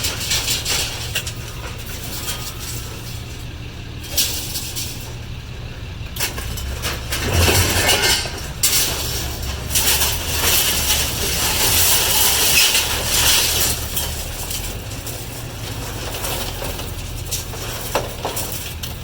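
A vehicle engine running steadily under repeated clinks, clanks and rattles of handled metal and glass, louder for several seconds around the middle.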